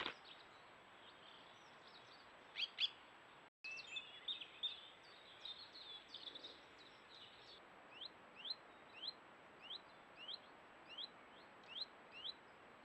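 A small bird calling: short rising chirps, scattered at first, then repeated about twice a second from about eight seconds in.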